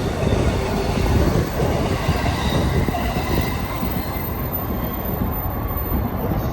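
An electric commuter train running through the station, with faint steady high tones that fade about four seconds in, under a heavy fluttering rumble of strong wind buffeting the microphone.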